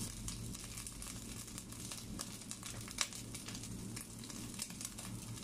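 Dried shrimp frying in a hot pan: a soft sizzle with scattered small crackles and one louder pop about three seconds in.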